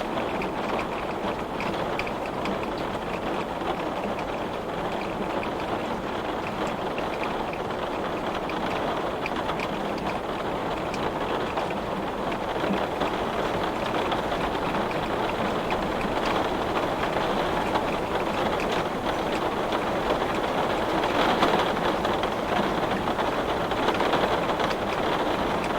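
Heavy rain pelting a glass window: a dense, steady hiss of drops with fine patters, swelling a little near the end.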